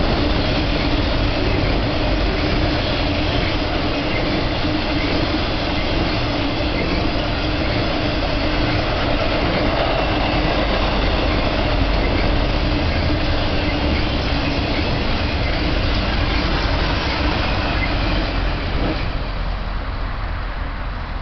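Intermodal freight train cars loaded with containers and truck trailers rolling past on the rails: a loud, steady noise of wheels on track that falls away near the end as the last cars go by.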